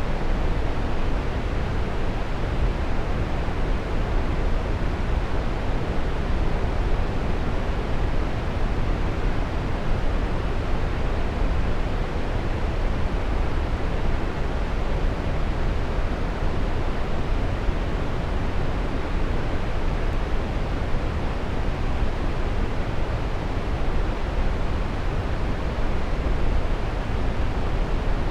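Waterfall: a steady, unbroken rush of falling water, fullest in the low range.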